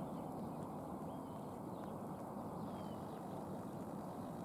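Steady low rumble of a slow-moving electric multiple unit coupled to an ex-Class 508 driving coach, with a few faint bird chirps.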